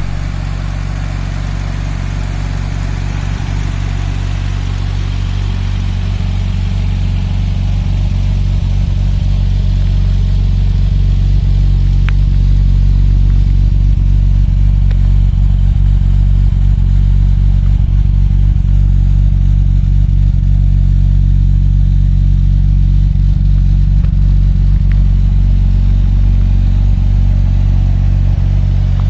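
Nissan RB26DETT straight-six with a big single turbo, idling steadily at a constant speed. It grows a little louder over the first ten seconds or so.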